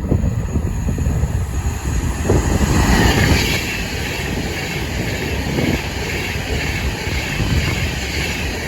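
A train running past close by: a loud low rumble with a rushing hiss over it that builds to its loudest about three seconds in, then holds steady.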